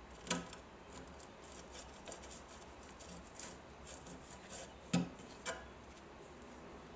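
Small hard objects being handled: a sharp knock about a third of a second in and two more about five seconds in, with faint light ticks and scraping between.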